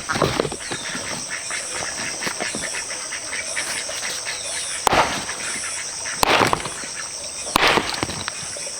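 Insects droning steadily at a high pitch, with a faster pulsing buzz above it, while three sharp knocks sound about a second and a half apart in the second half.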